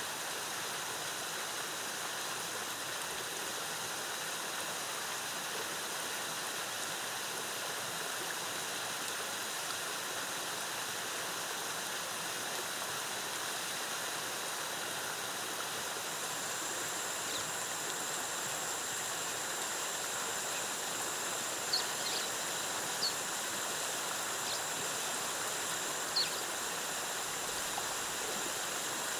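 Waterfall water cascading in a steady, even rush. About halfway through a thin, steady high-pitched tone joins in, and a few short high chirps sound near the end.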